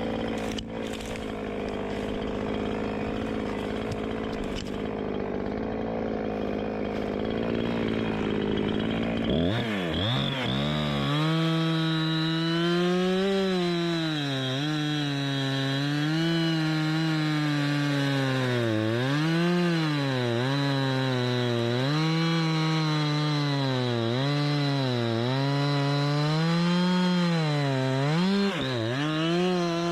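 Chainsaw cutting through tree wood. For about the first third a lower, steadier engine runs. Then the saw revs up to full throttle, and its high whine dips and recovers over and over as the chain bites into the wood under load.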